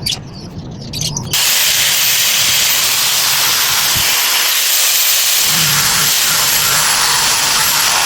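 A loud, steady hiss that starts abruptly about a second in, with a faint high whine wavering above it; a few light clicks come before it.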